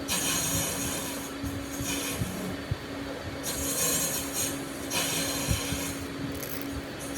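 Wood being rasped or sanded by hand in several long, scraping strokes, each about a second long, over a steady low hum.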